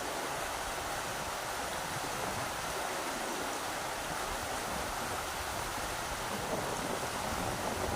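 Rushing river water: a steady, even rush with a low rumble underneath.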